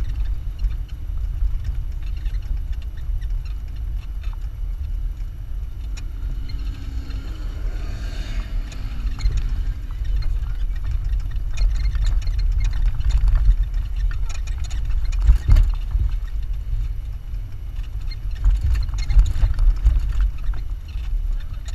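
A Jeep driving over sand: a steady low rumble of engine and vehicle noise, with scattered knocks and rattles as it bumps along, one louder jolt about 15 seconds in.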